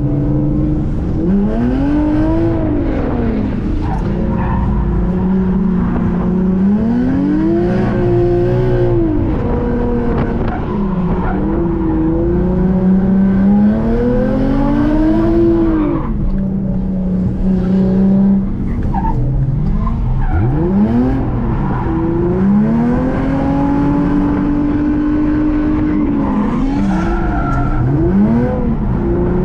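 A drift car's engine revving up and falling back again and again, every few seconds, with its tyres skidding.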